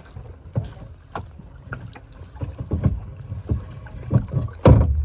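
Paddles knocking and splashing as a small boat is paddled, a string of irregular thumps, the loudest near the end.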